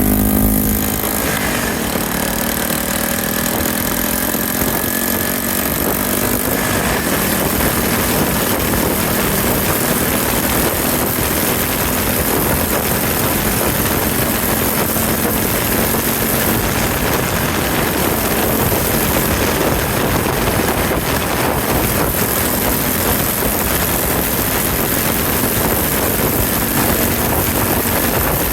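Yamaha TW200 single-cylinder motorcycle engine under way, rising in pitch as it accelerates over the first few seconds, then running steadily under heavy wind noise.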